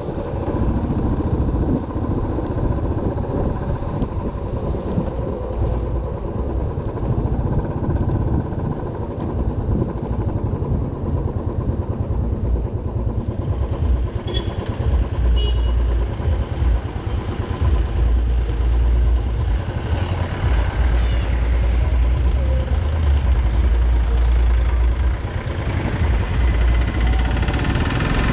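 Motorcycle running on the move, with a dense low rumble that gets heavier about halfway through.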